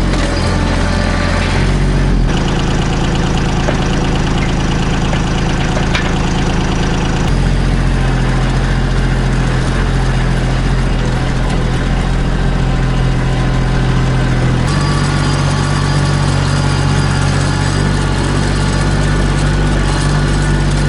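Kubota B2650 compact tractor's three-cylinder diesel engine running steadily. Its engine note shifts to a new steady pitch a few times.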